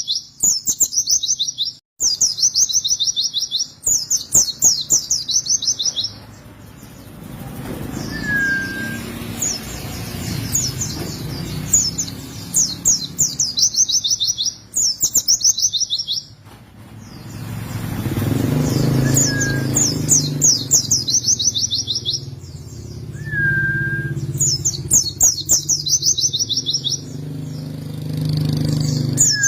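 White-eye (pleci) singing: repeated bursts of fast, high, rolling trills, each about a second long, with a few short lower downslurred whistles between them. A low rumble, like a passing engine, runs underneath for much of the second half.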